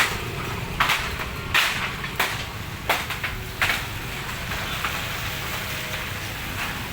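Strong wind gusting hard over the microphone as a steady low rumble, with irregular loud rattling and clattering bursts, several in the first four seconds, as the gale batters market stalls.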